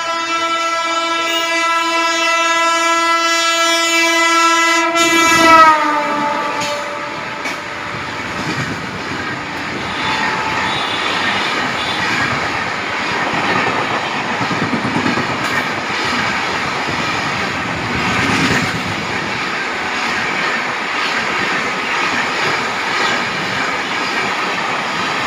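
Indian Railways WAP-7 electric locomotive sounding its horn in one long blast whose pitch drops as it passes, then the train's coaches rushing past with a steady clickety-clack of wheels over rail joints.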